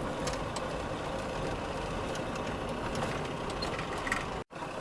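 Old Land Rover's engine running with a steady rumble, breaking off suddenly near the end.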